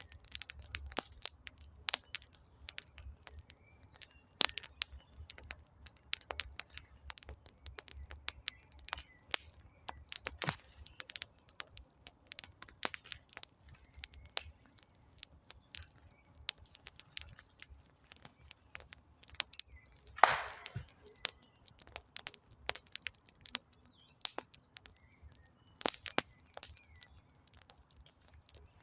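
Wood campfire crackling, with frequent irregular sharp pops and snaps and one louder, longer crack about twenty seconds in.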